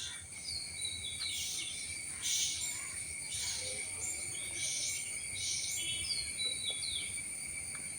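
Steady high-pitched drone of cicadas, with small birds chirping over it and giving several short falling whistles.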